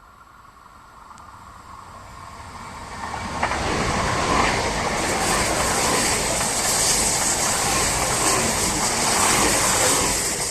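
A train passing through the station: its running noise grows over the first few seconds, then holds loud with a strong hiss of wheels on rail for about six seconds, and begins to fade near the end.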